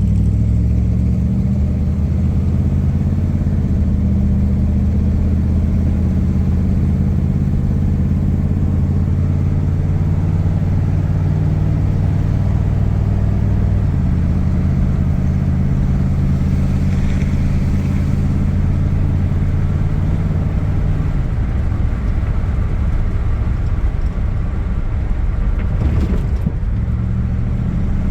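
A rat rod car's engine, fitted with a new carburetor and new exhaust, running steadily while driving. The engine note shifts about halfway through, eases off about three quarters of the way in, and picks up again just before the end.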